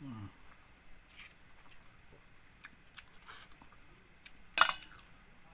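Quiet eating sounds: small clicks of chewing and mouth noises from someone eating rice, with one sharp, loud noise about four and a half seconds in.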